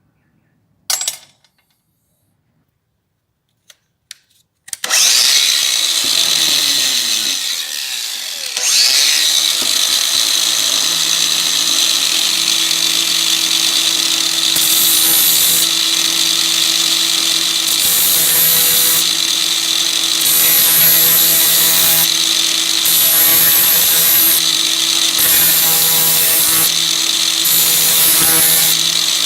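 An electric power tool starts up about five seconds in and runs steadily. Its speed swings up and down for a few seconds before settling, and a higher hiss cuts in and out every second or so later on.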